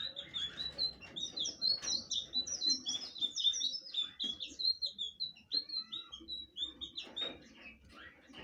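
Blue flycatcher singing: a fast, unbroken run of short high notes, many sliding down in pitch, that stops about seven seconds in.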